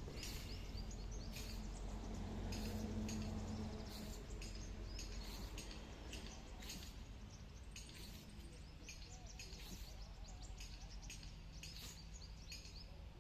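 Short, high chirps repeating every second or so over a steady low rumble of background noise.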